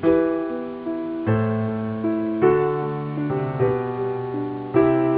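Background music: slow piano chords, a new chord struck about every second and ringing out.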